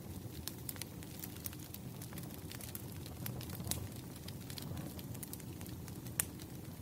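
Firewood burning in a bonfire: a steady low rumble with scattered sharp crackles and pops. The loudest pop comes about six seconds in.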